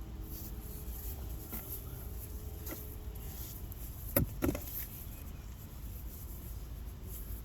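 Two sharp knocks in quick succession about four seconds in, with a few fainter clicks before them, over a steady low outdoor rumble.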